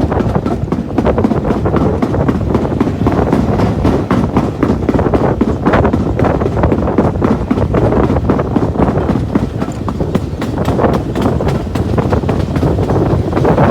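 Train running along the track: a steady rumble with many quick clicks and knocks from the wheels and carriage.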